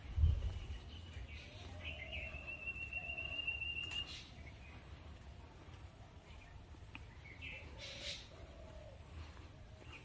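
Birds calling, one holding a steady whistled note for about two seconds, with a few short lower calls, over a constant high hiss. A low thump right at the start.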